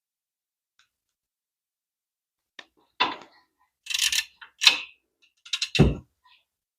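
Short metallic clanks and clatters of hand tools and hardware while caliper bracket bolts go back on a brake assembly: a few separate knocks from about three seconds in, ending in a cluster of clatters with a dull thump near the end.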